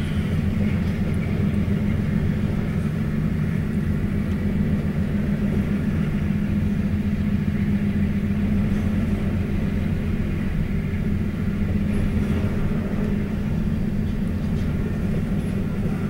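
CSX double-stack intermodal freight train rolling past, its container-laden well cars making a steady low rolling noise that holds level throughout.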